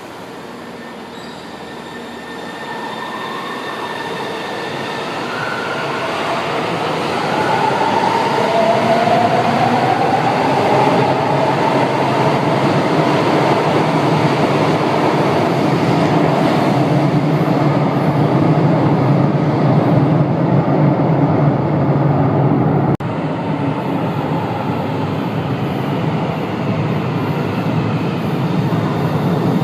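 São Paulo Metro Line 2 train approaching and running along the station, growing steadily louder over the first several seconds with a faint gliding whine, then a sustained loud rumble.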